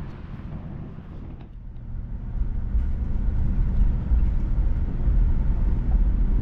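Steady low engine and road rumble of a moving vehicle heard from inside, growing louder about two seconds in.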